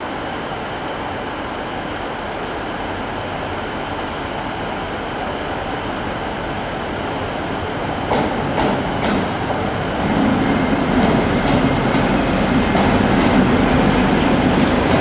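A train running on the rails, a steady noise with a few sharp wheel clicks about eight seconds in, growing louder from about ten seconds.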